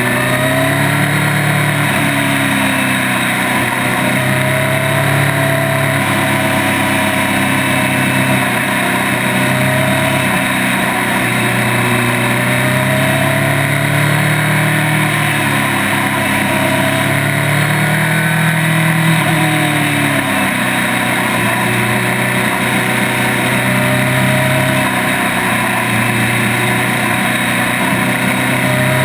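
Honda CB1000 inline-four motorcycle engine running at speed, its pitch rising and falling again and again as the throttle is rolled on and off through the bends, over steady wind and tyre noise.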